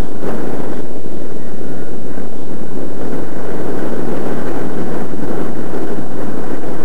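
Strong gusty wind buffeting the microphone, loud and constant, over the drone of a radio-controlled SPAD twin-boom model plane's ASP .61 two-stroke glow engine in flight.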